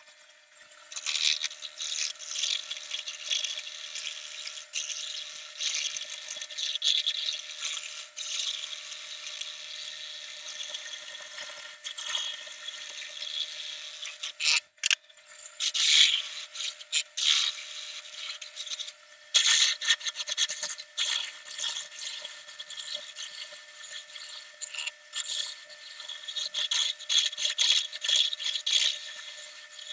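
Wood being worked on a turning lathe: a tool scraping and rubbing against the spinning piece in uneven strokes over a faint steady hum, with short pauses about halfway through.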